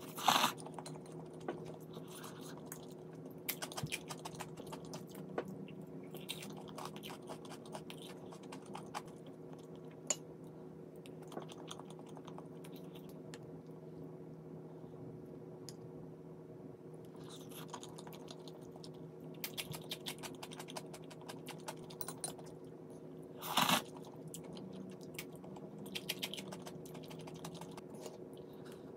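Close-miked eating sounds: chewing and crunching crisp food, with clusters of small crackling clicks. Two louder short noises come near the start and about 24 seconds in.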